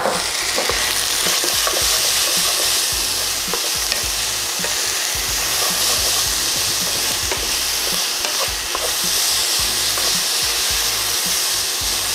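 Diced vegetables and potatoes sizzling steadily in hot oil in a stainless steel pan while a wooden spoon stirs them, the spoon now and then knocking lightly against the pan.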